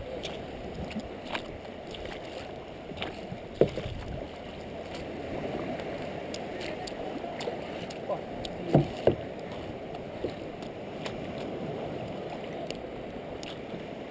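Water sloshing and splashing steadily around a kayak as it is paddled, with a few sharp knocks on the boat; the loudest is a quick double knock about nine seconds in.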